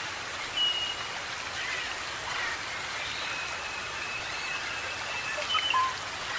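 Rainforest birds giving short clear whistles and one long steady high note over a continuous hiss like rain or dense forest background.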